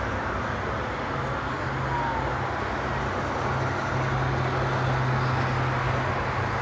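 Road traffic: vehicles passing with a steady low engine hum and tyre noise, getting a little louder in the second half.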